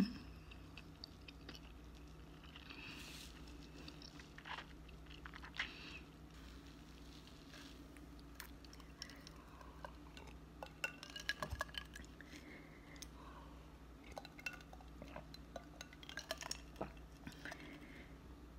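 Faint eating and drinking sounds: a person chewing soft cheese, then small clicks and light clinks as a drinking glass is lifted and sipped from, with a cluster of quick clicks about two-thirds of the way through.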